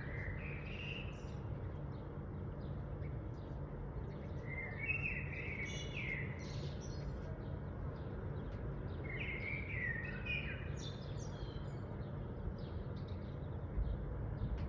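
Birdsong: short chirping phrases come three times, a few seconds apart, over a steady low background rumble.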